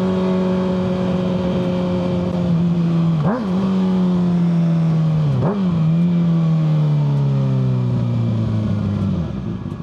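Kawasaki ZX-6R 636 inline-four engine through a Yoshimura full exhaust, running at a steady engine speed with two brief jumps in pitch about a third and halfway in. The engine note then sinks slowly and drops away near the end as the bike slows.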